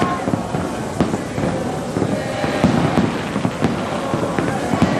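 Aerial fireworks bursting in quick succession: a dense run of booms and crackling reports.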